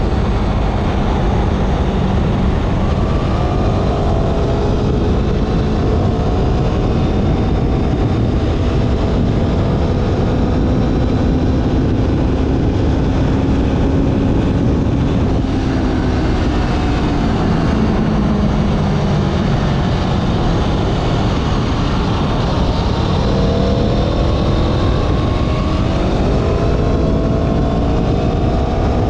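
Motorcycle engine running under way, its pitch slowly climbing and easing off, then rising strongly near the end as the bike accelerates. Heavy wind rumble on the microphone runs underneath.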